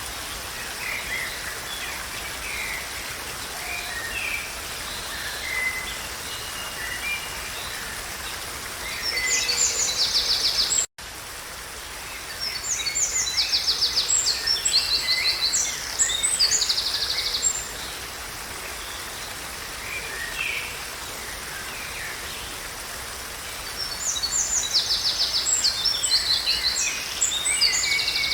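Several wild birds singing and calling over a steady rushing background, with spells of rapid trilling notes about 9 seconds in, again from about 12 to 17 seconds, and near the end. The sound cuts out for an instant about 11 seconds in.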